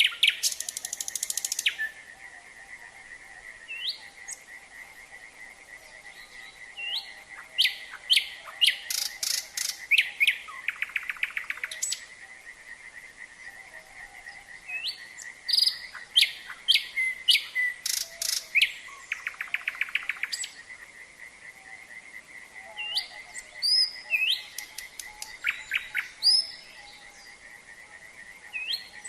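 Nightingale singing: phrases of rapid repeated notes, clear whistles and buzzy trills, each a couple of seconds long with short pauses between. Underneath runs the steady high-pitched drone of a frog chorus.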